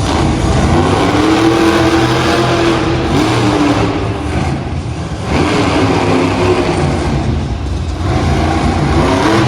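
Monster truck engine revving in an arena, its pitch rising and falling several times, with a short drop-off about halfway through before it revs up again.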